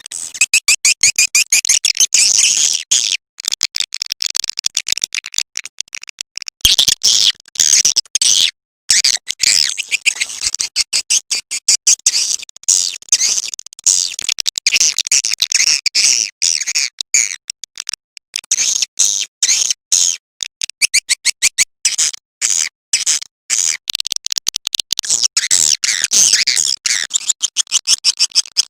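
Recorded swiftlet calls: a dense, high-pitched stream of rapid clicking chirps and trills, broken by short gaps.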